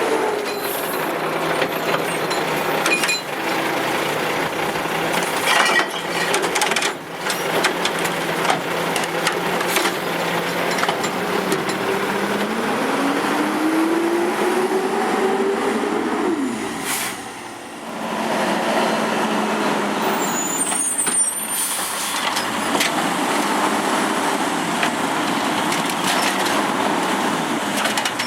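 Garbage truck at work: its diesel engine revs up, climbing in pitch over a few seconds near the middle and then dropping away, with scattered clanks and knocks throughout.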